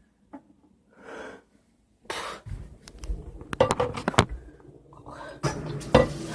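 A person breathing hard and wheezing in smoky air, among knocks and clatter about halfway through.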